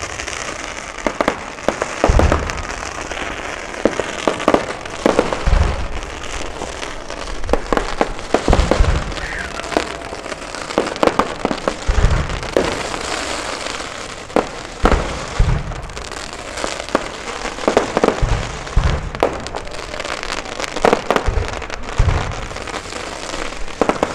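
Aerial fireworks display: shells bursting with deep booms every two to four seconds, with dense crackling between them.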